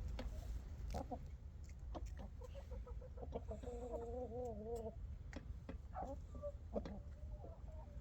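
Chickens clucking, with one drawn-out wavering call about three and a half seconds in and shorter calls near the end, among scattered sharp taps.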